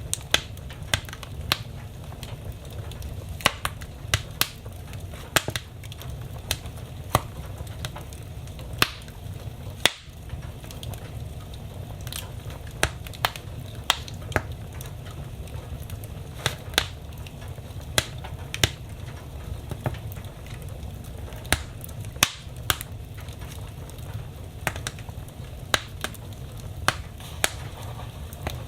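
Wood fire burning in a fireplace, crackling: irregular sharp pops and snaps, some loud, over a steady low rumble.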